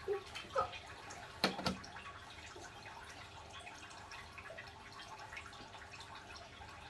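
Two sharp knocks close together about a second and a half in, over faint room noise with a low steady hum.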